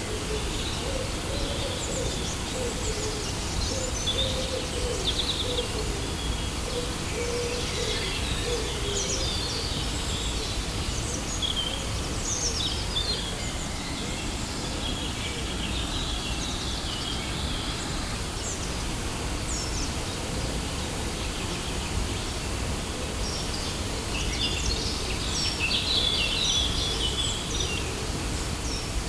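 Waterfall rushing steadily, with songbirds chirping and calling above it. The birds are busiest near the end. A low wavering call runs through the first third.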